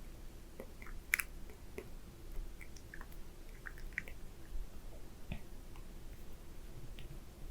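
Close-miked wet mouth sounds: scattered lip smacks and tongue clicks, with one sharper, louder click about a second in.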